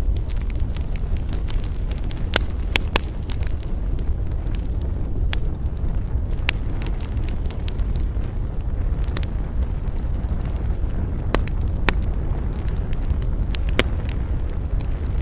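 Wood campfire burning: a steady low rumble of flames with sharp crackles and pops of burning wood scattered through it.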